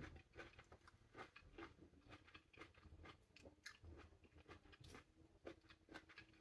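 Faint chewing of small half-ripe plums, with soft irregular mouth clicks.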